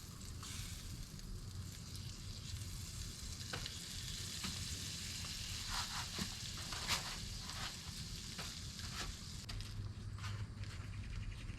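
Panfish fillets frying in hot oil: a steady sizzle with scattered crackles and pops, one louder pop about seven seconds in.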